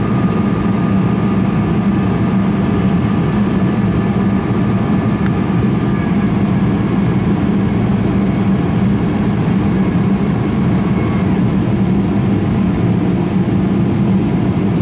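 Steady low drone of a Boeing 737-500's CFM56 jet engines running, heard from inside the cabin, with a faint high whine that fades out about eleven seconds in.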